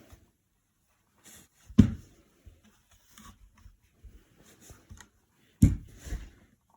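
Handling noises from a small plastic mini fan being turned over and examined: scattered light clicks and rustles, with two louder knocks, one about two seconds in and one near the end.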